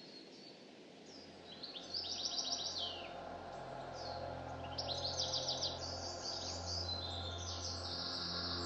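Songbirds singing high, rapid trilling phrases: a short burst about two seconds in and a longer one about five seconds in, with scattered single high notes between.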